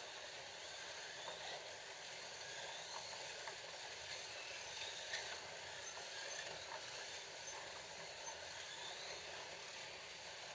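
Scalextric slot cars running laps on a plastic track: the steady whir of their small electric motors, with a few faint clicks.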